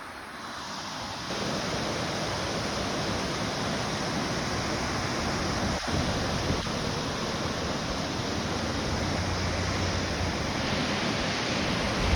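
Flowing river water rushing steadily over rocks, an even, dense hiss that grows louder about a second in.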